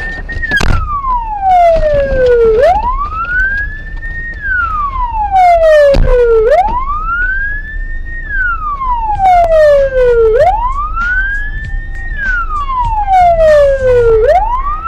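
Emergency vehicle siren on a slow wail, its pitch rising over about two seconds, holding briefly, then falling, repeating about every four seconds. A few sharp clicks and knocks sound over it.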